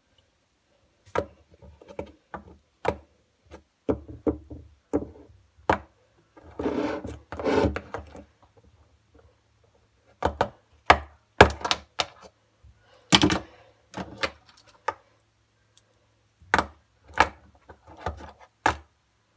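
Irregular sharp knocks and taps, a dozen or more spread unevenly, with a noisier stretch of rubbing lasting about two seconds around seven seconds in.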